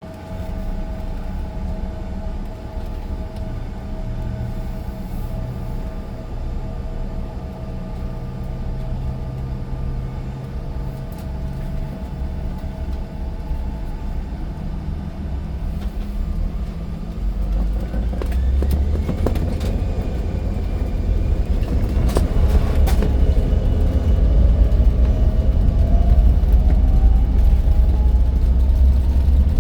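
Turbofan engines of an American Eagle CRJ-900 regional jet running, a steady whine over a low rumble. About 17 seconds in the rumble grows louder, and from about 24 seconds the whine rises steadily in pitch as the engines spool up, with a couple of sharp clicks just before.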